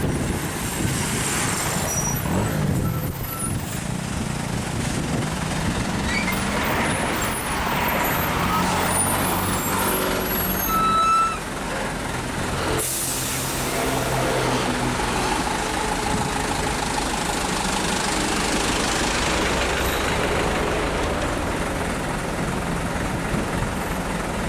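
Heavy diesel trucks idling and creeping in stop-and-go traffic, engines running steadily, with a sharp air-brake hiss about halfway through.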